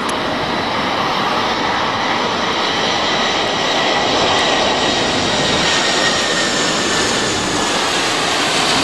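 Boeing 747's jet engines on landing approach: a loud, steady rushing noise that grows slightly louder, with faint high whining tones drifting in pitch.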